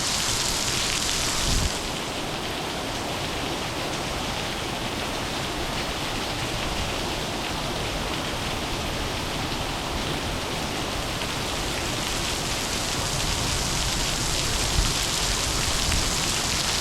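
Monsoon rain falling steadily, a little harder in the first second or so and again over the last few seconds, with a brief dull low bump about fifteen seconds in.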